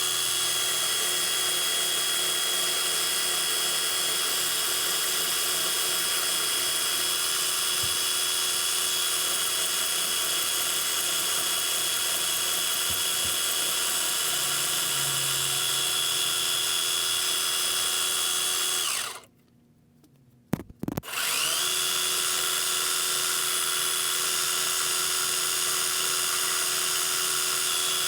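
Metal lathe running at a steady speed with a high motor whine. About two-thirds of the way through it winds down to a stop, a couple of clicks follow, and then it spins back up to speed.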